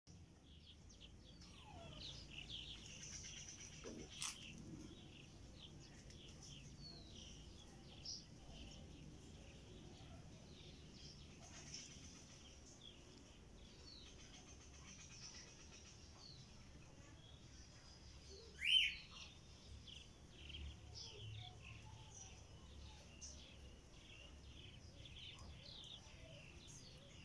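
Faint birds chirping throughout, many short scattered chirps over a low background hiss, with one louder call about two-thirds of the way through.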